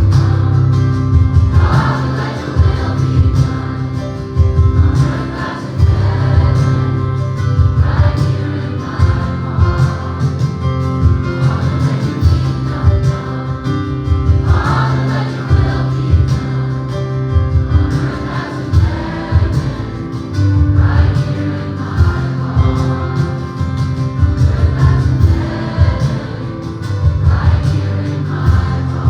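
Gospel choir singing over live accompaniment with a heavy bass line and a steady beat.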